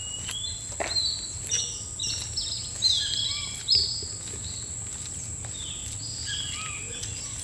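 Tropical forest birds calling with many short whistled and chirped notes, over a steady high insect drone. A couple of short sharp knocks stand out about three seconds in.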